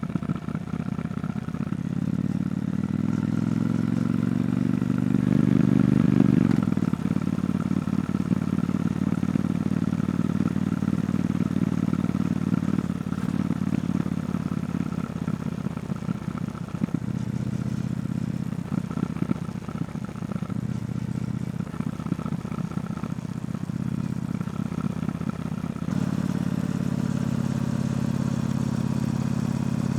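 Triumph Bonneville T120's parallel-twin engine through its stock exhaust while being ridden. Its pitch climbs as it accelerates and is loudest about six seconds in, then it runs on at a steadier pitch, with a few dips midway and again late.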